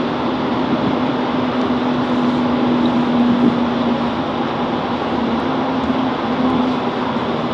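Class 165 Networker Turbo diesel multiple unit idling while stopped at a station: a steady engine hum with a low held tone.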